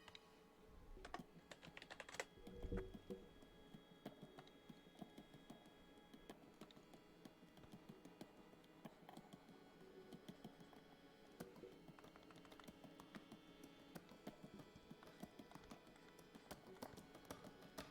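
Faint, irregular clicking of a computer keyboard, keys tapped in quick scattered runs.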